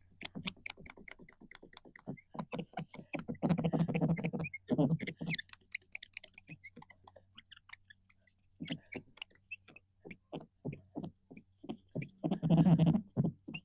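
Cloth with rubbing alcohol scrubbed back and forth on a car windshield to clean off windshield-repair resin: a quick run of short rubbing strokes, several a second, with two longer, louder scrubbing stretches about four seconds in and near the end.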